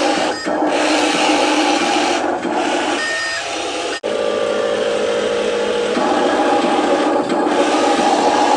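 Small electric motor and plastic gearbox of a radio-controlled truck running with a steady rasping whine. It cuts out abruptly for an instant about four seconds in, and the pitch of the whine shifts about two seconds later.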